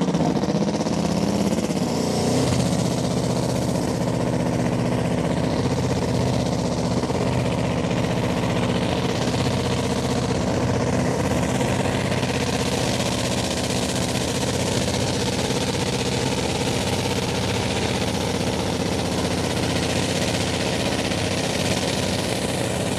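Light Modified pulling tractor's engine running hard at high revs through a pull, loud and steady in pitch.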